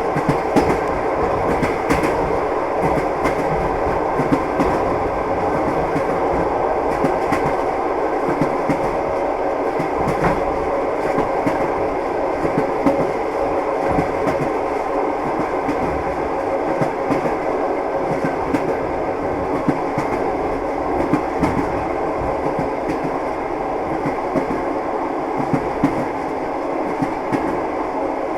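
Train wheels clattering on the rails as a railway car runs along at steady speed: a continuous rumble with frequent short knocks from the wheels over the track.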